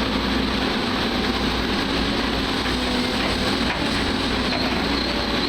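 Excavator's diesel engine running hard under load, a steady drone with its hydraulics straining as the bucket pulls against wreckage held down by suction in the sand.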